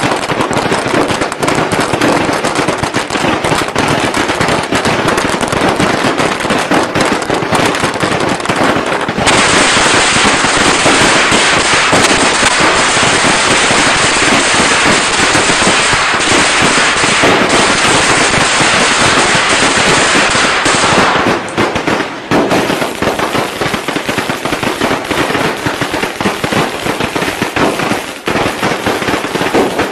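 Strings of Vietnamese firecrackers going off in a continuous, rapid crackle of sharp pops. About nine seconds in it becomes a denser, brighter barrage, and around twenty-one seconds it returns to a looser crackle.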